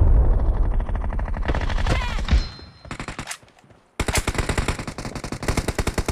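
Automatic gunfire in a shooter video game: a long stream of rapid shots that breaks off a little over two seconds in, a few more shots, a short lull, then rapid fire starting again about four seconds in.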